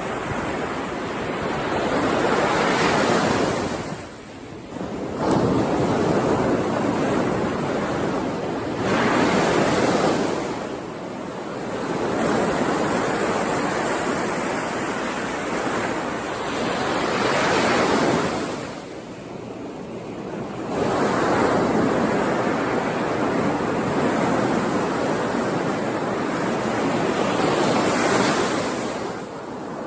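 Ocean waves breaking and washing up the shore, several in a row, each swelling and fading away with a short lull before the next.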